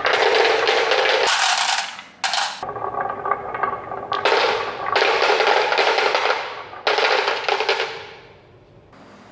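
Marbles rolling and clattering along wooden marble-run tracks: several stretches of dense, rapid clicking with short breaks between, fading away near the end.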